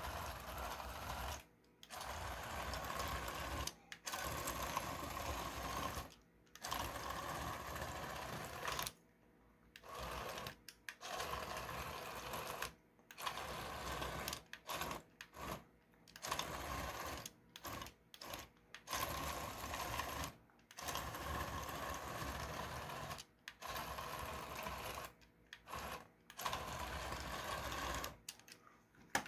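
Single TT gear motor of a 3D-printed toy bulldozer whirring and driving its printed-in-place plastic tracks. It runs in about a dozen bursts of one to three seconds, stopping briefly between them, as the toy is driven forward and reversed to spin and steer.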